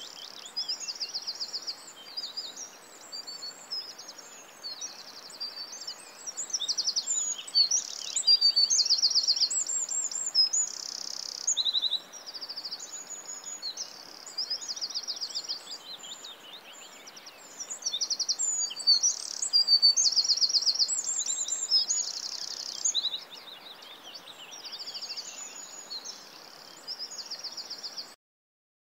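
A songbird singing varied high chirps and quick trilled phrases over a steady hiss; the sound cuts off suddenly near the end.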